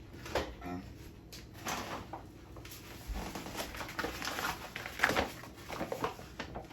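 Irregular light knocks, taps and rustles of kitchen things being handled on a counter.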